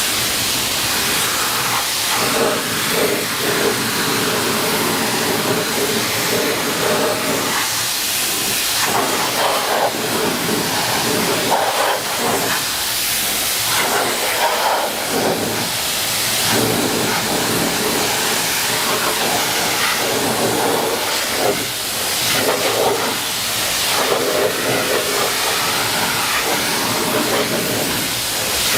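Electric pressure washer spraying a steady, hissing jet of water against a fire truck's dirty wheels. The tone of the spray keeps shifting as the jet moves over the surface.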